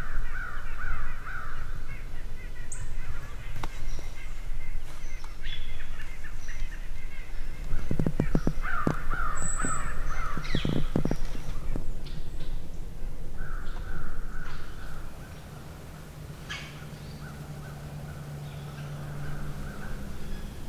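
Crows cawing in several bouts of repeated harsh calls, over a steady low rumble, with a quick run of sharp clicks in the middle.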